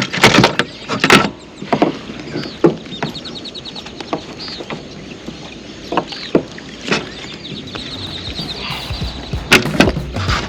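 Irregular knocks and thumps against a kayak as a freshly landed fish is handled aboard, with two short runs of rapid ticking, about three seconds and eight seconds in.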